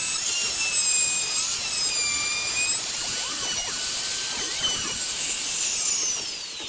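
Homemade table saw running at speed with a high, steady whine whose pitch dips slightly a few times, then spinning down near the end with a falling whine as it is switched off.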